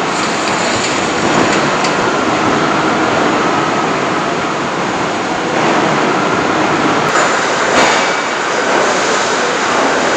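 Steady, dense noise of an assembly-plant floor: machinery and air running together, with a short clatter about eight seconds in.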